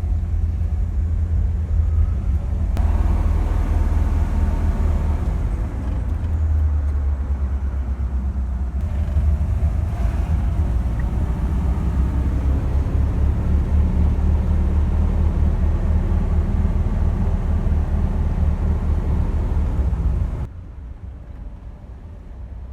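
1957 Ford Thunderbird's 312 V8 running under way, with road noise, heard from inside the car: a steady low rumble. It drops suddenly to a quieter rumble about two seconds before the end.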